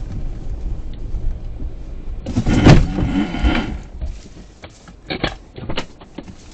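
Car driving with a steady low road and engine rumble. About two and a half seconds in comes a loud, rough noise lasting about a second and a half, followed by several short sharp knocks.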